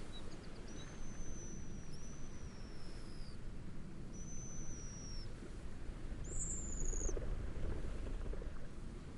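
A bird's high, thin whistled calls: four drawn-out notes, each falling slightly in pitch, the last one higher, over a steady low rush of wind and waves.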